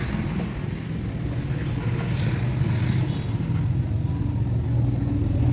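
Steady low mechanical rumble, like an engine running nearby, with no clear knocks or tool strikes.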